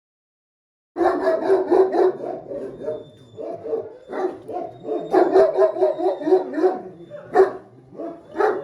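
Central Asian Shepherd Dog giving quick runs of short barks and grumbling vocal sounds, several a second, with brief pauses between runs; it starts about a second in.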